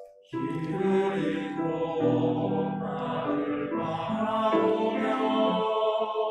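A church choir singing a sustained, chordal hymn phrase in several parts, entering just after a short pause and fading out near the end.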